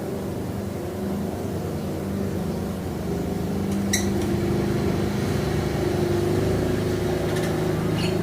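A steady low motor hum, like an engine running, getting slightly louder past the middle, with two short high chirps at about four seconds in and near the end.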